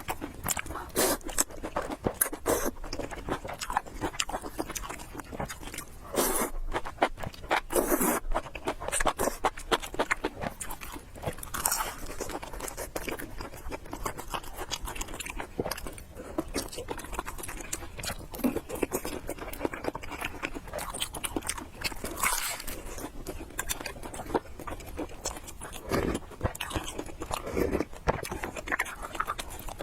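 Close-miked eating: irregular wet chewing, slurping and smacking of noodles and dumplings, with clicks and scrapes from utensils against a bowl.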